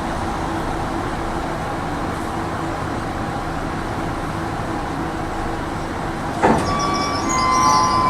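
Tram running with a steady rumble of wheels on rails and a low motor hum. About six and a half seconds in, a high metallic squeal with several steady tones sets in and grows louder toward the end.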